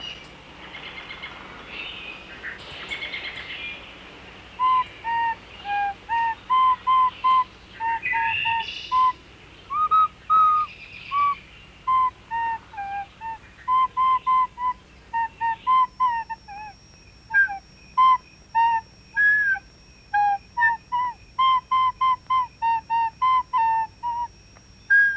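A simple tune of short, clear, whistle-like notes, mostly separate and evenly paced, following a few seconds of chirping at the start. A faint steady high whine joins about two-thirds of the way through.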